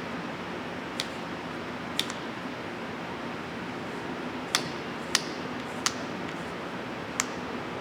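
Steady background hiss with six short, sharp clicks at irregular intervals, the loudest about four and a half seconds in.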